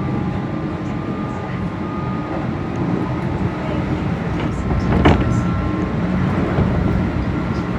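Keihan electric train running, heard from the driver's cab: a steady rumble of wheels and motors with faint steady whines. There is a single sharp clank about five seconds in.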